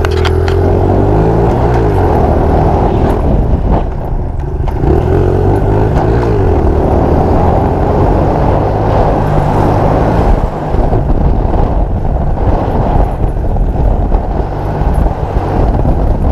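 Small off-road motor vehicle's engine running close by, its pitch rising and falling several times as the throttle is opened and eased off.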